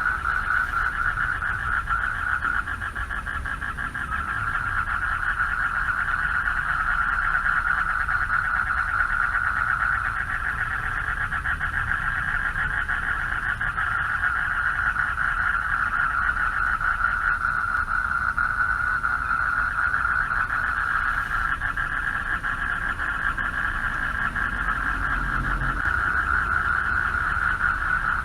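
Chorus of many male frogs calling from a pond for mates: a dense, unbroken trilling of rapid pulses, with a low rumble underneath.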